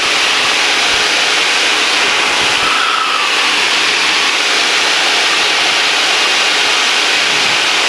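Steady drone of a small single-engine training airplane's engine and propeller with airflow, heard from inside the cabin.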